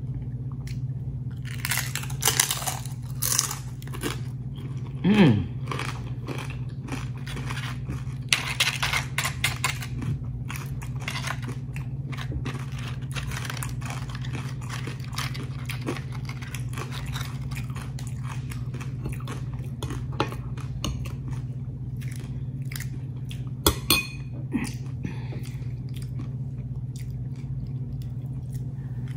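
Someone crunching and chewing crisp fried tortilla chips, in irregular bursts of crunches and clicks, over a steady low hum. A short falling vocal sound comes about five seconds in.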